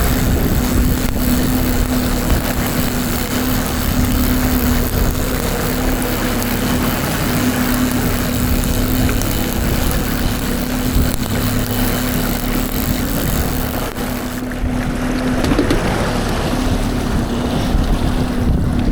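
Boat engine running at a steady hum, with wind buffeting the microphone.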